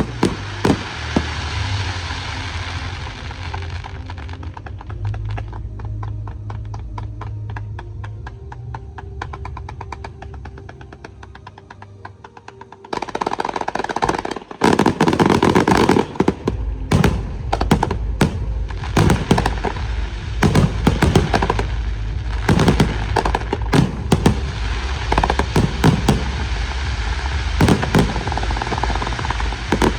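Firework display: sharp bangs, then a fast crackling that slowly fades, and about 13 seconds in a sudden loud barrage of rapid bangs that keeps going.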